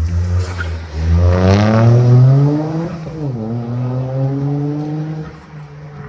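A competition car's engine accelerating hard past: the revs climb, drop sharply at a gear change about three seconds in, climb again, then the sound fades as the car pulls away.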